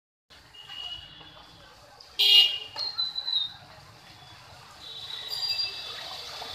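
Street ambience with vehicle horns: a loud honk about two seconds in, a few shorter toots right after, and a fainter horn near the end.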